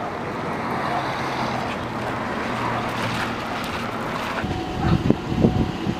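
A moving car: steady road and engine noise, with a run of low, uneven bumps in the last second and a half.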